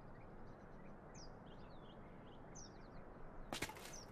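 Faint outdoor ambience with small birds chirping now and then. Near the end, a few footsteps begin.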